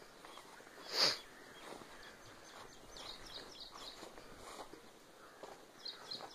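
A small bird chirping in quick runs of short high notes, about six a second, starting about three seconds in and again near the end, over faint outdoor background noise. A single sharp, loud sound comes about a second in.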